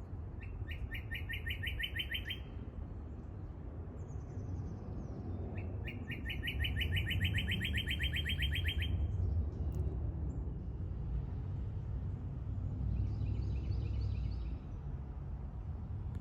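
A songbird sings a rapid, even trill of about nine repeated notes a second, twice: once for about two seconds, then again for about three seconds. Other birds give fainter calls in between, over a steady low rumble.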